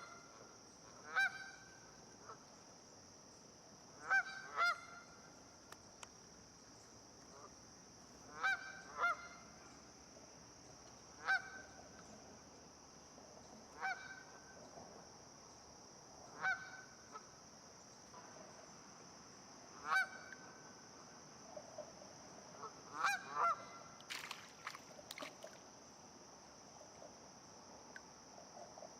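Geese honking: short single and paired honks every few seconds, with a steady high hiss underneath.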